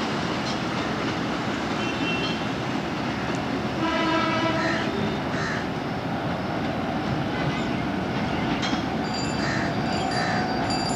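Railcar train running past with a steady noise of the train and traffic, and the railcar's horn sounding one blast of about a second, about four seconds in.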